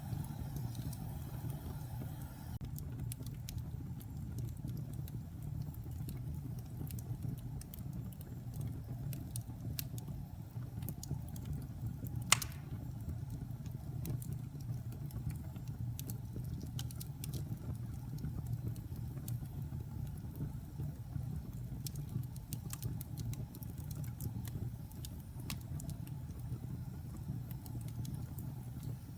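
Wood fire burning in a fireplace: a steady low rumble of flames with scattered small crackles, and one loud sharp pop about twelve seconds in.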